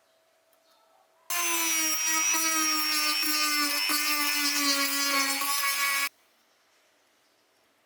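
A power tool running under load for about five seconds, its pitch sagging slightly, starting and stopping abruptly.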